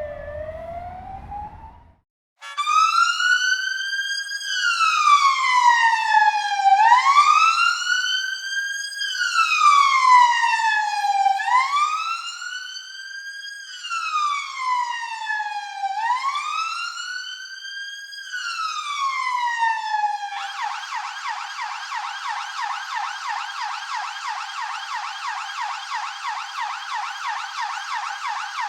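Electronic police siren in a slow wail, rising and falling about every four and a half seconds, switching about two-thirds of the way through to a fast yelp. In the first two seconds a different siren tone ends abruptly, followed by a moment of silence before the wail starts.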